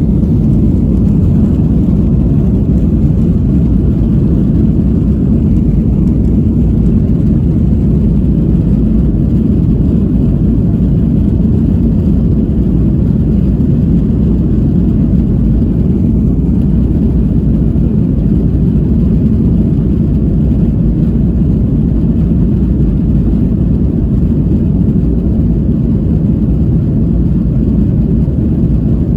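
Jet airliner running with a steady, loud low rumble of engine and airflow noise.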